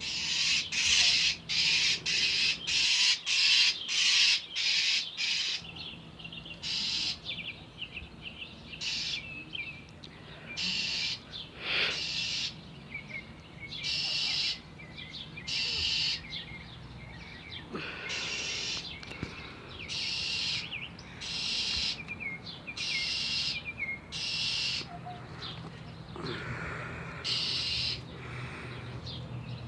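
A bird's harsh scolding alarm calls, the mobbing calls of a bird angry at cats nearby. The calls come fast, about two or three a second, for the first few seconds, then slow to one every second or two.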